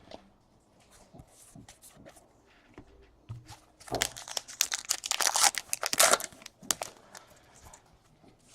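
Trading-card pack wrapper being torn open and crinkled: faint clicks, then a dense crackle about four seconds in that lasts a couple of seconds, then a few light ticks.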